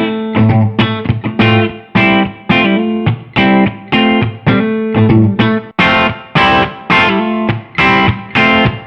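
Electric guitar with PAF-style humbucker pickups, a Gibson Custom Shop Les Paul, played through an amp. Picked chords and notes are struck about twice a second in a steady rhythm, each ringing briefly before the next.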